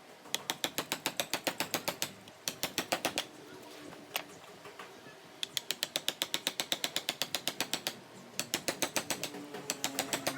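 Rapid mechanical clicking, about ten sharp clicks a second, in several bursts with short pauses between them.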